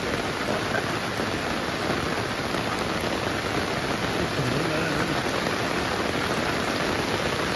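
Heavy rain pouring down steadily, an even hiss of water with no let-up. A faint voice can be heard briefly about halfway through.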